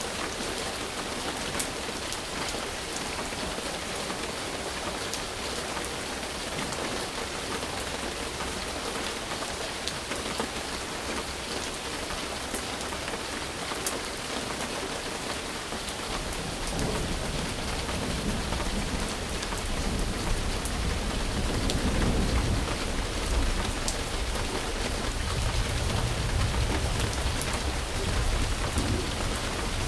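Steady rain falling, with individual drops ticking sharply now and then. About halfway through, a low rumble of distant thunder comes in and rolls on to the end.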